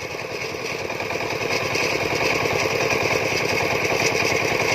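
Farm machine engine running with rapid, even firing beats, growing gradually louder.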